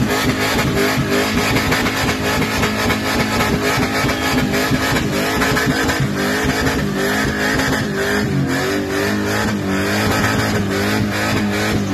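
Holden Monaro's engine held at high revs as the rear tyres spin and smoke in a burnout. The revs rise and fall in the second half.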